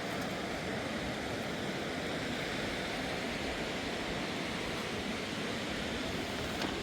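Steady rush of a fast-flowing river, an even unbroken noise of running water, with a small click near the end.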